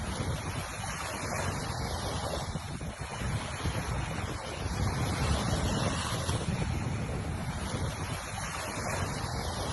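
Surf washing onto a beach in a continuous rush that swells a little about halfway through, with wind rumbling on the microphone.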